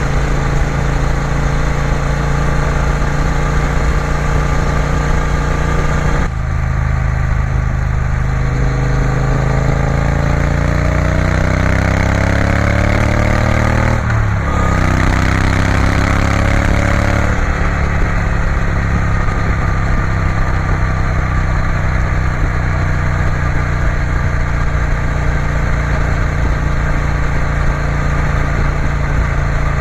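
Triumph Bonneville T120's 1200cc parallel-twin engine heard from the moving bike: steady running, easing off about six seconds in, then accelerating with rising pitch through two gears, with an upshift about fourteen seconds in, before settling back to a steady cruise about seventeen seconds in.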